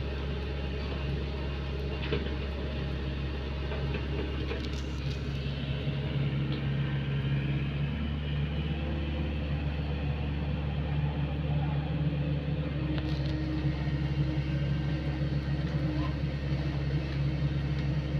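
Excavator's diesel engine running steadily, growing somewhat louder about six seconds in.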